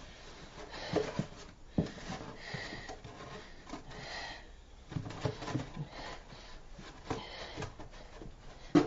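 Window screening rustling and being pressed into the bottom of a plastic milk crate, with a scattering of light knocks and taps against the crate.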